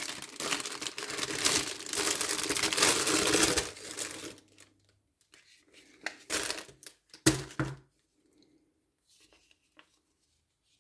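Packaging of a motorcycle tank pad being handled and torn open: a dense rustle for about four seconds, then a few short rustles and near quiet.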